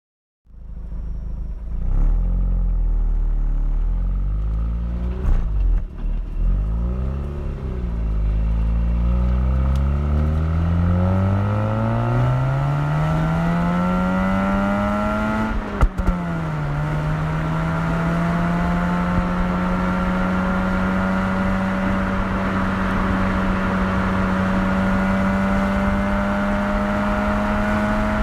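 Mazda RX-8's two-rotor rotary engine, its exhaust loud through the muffler: a few short revs, then a long pull rising in pitch as the car accelerates, an upshift about 16 seconds in, and a steady high-revving run with the pitch slowly climbing.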